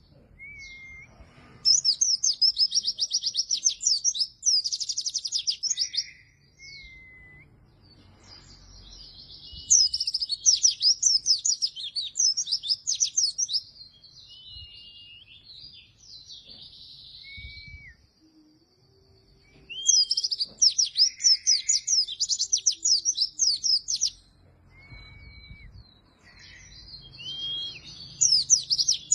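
A white-eye (pleci) singing in bursts of rapid, high chirping phrases, each a few seconds long, with short pauses between them. Single thin whistled notes fall in the gaps between bursts.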